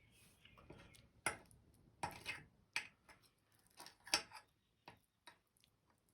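Cutlery and dishes clinking: about eight irregular sharp clicks and knocks, the loudest about a second in and about four seconds in.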